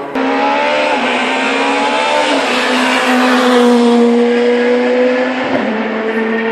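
Rally car accelerating hard, its engine note climbing and then dropping at gear changes about two seconds in and again near the end. A swell of noise around the middle as it passes.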